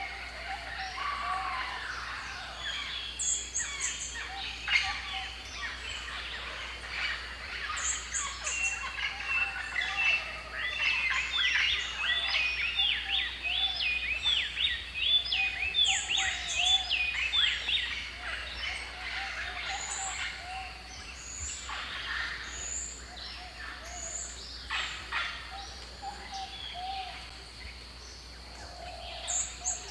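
A chorus of several birds calling and chirping at once, with high short notes, rapid chirps in the middle range and lower warbling notes; the chirping is densest in the middle of the stretch.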